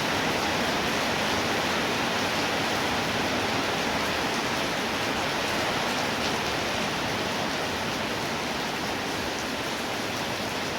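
Steady heavy rainfall, a dense, even hiss.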